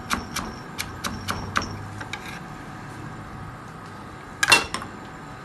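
Knife chopping on a cutting board, about three cuts a second, stopping about two seconds in. A louder clatter of knocks about four and a half seconds in.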